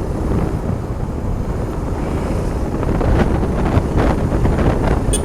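Wind rushing and buffeting over the microphone of a moving motorcycle, with steady engine and road noise underneath.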